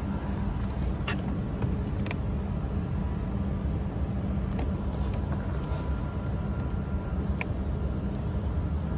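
Car engine running steadily, a low even rumble with a few light clicks and taps over it.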